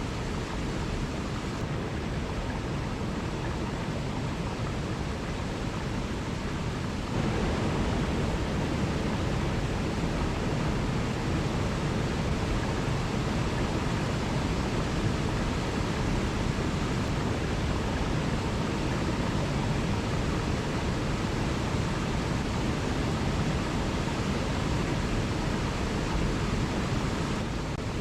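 Waterfall rushing steadily, an even noise of falling water. It grows louder and fuller about seven seconds in and eases back slightly near the end.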